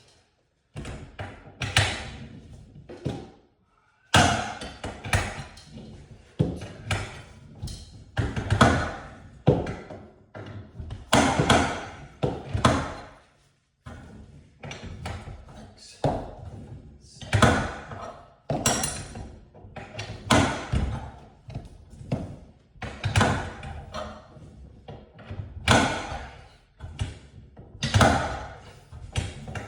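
Repeated heavy clunks and knocks of garage door hardware being worked on during a spring replacement, about one every second or two, each with a short ringing tail.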